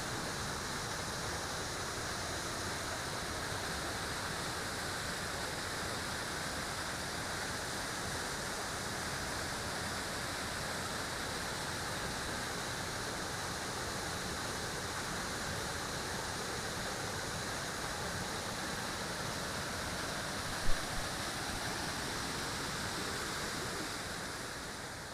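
Steady rushing of a jungle waterfall and its rapids, an even unbroken noise. A single sharp knock sounds about twenty seconds in, and the rush fades out near the end.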